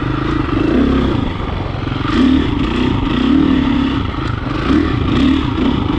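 Dirt bike engine running as it is ridden, its pitch rising and falling several times with the throttle.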